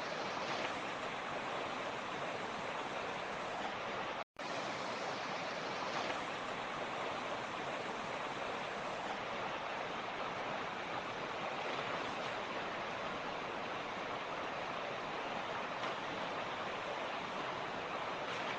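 A mountain torrent rushing steadily over rocks, an even, unbroken water noise, with a brief cut to silence of a fraction of a second about four seconds in.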